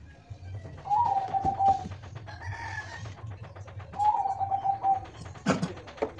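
A dove cooing twice, about a second in and again about four seconds in, each a short held note. Light clicks from handling run underneath, and a louder knock comes near the end.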